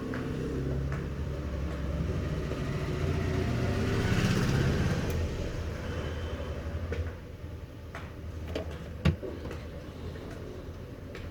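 Repaired Crompton Greaves ceiling fan motor running on test with a low steady hum and no bearing noise. The hum grows louder over the first few seconds and eases off about seven seconds in. A sharp click comes about nine seconds in.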